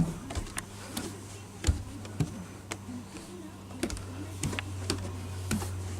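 Room air conditioner running with a steady low hum, with scattered irregular clicks and taps over it.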